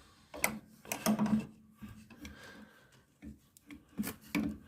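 About half a dozen irregular sharp clicks and clunks of a hand grease gun being fitted onto a steering-box grease nipple and worked.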